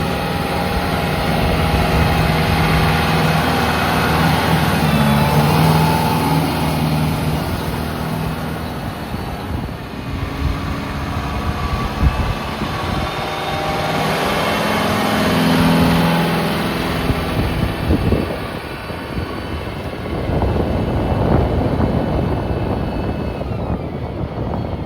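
Kubota tractor's diesel engine running, its speed rising and easing off a couple of times.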